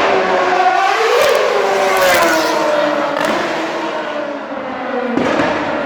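Formula 1 car's engine running at high revs and passing by. Its pitch rises sharply about a second in, then slides steadily down, with a sudden drop in pitch near the end.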